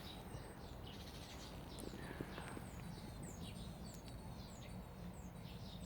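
Faint birdsong outdoors: short, high chirps falling in pitch, repeated about twice a second, over a steady low background rumble.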